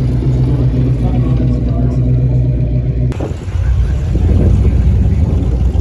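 Classic car engines running with a steady low rumble. About three seconds in, the sound changes abruptly to a different, louder engine rumble.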